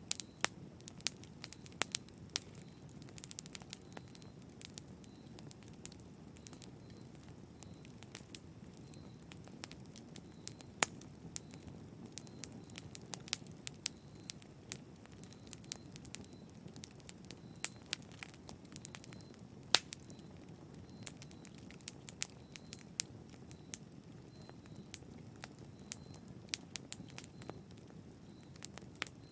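Fireplace fire crackling: irregular sharp pops of varying loudness over a soft low rumble, with one especially loud pop about two-thirds of the way through.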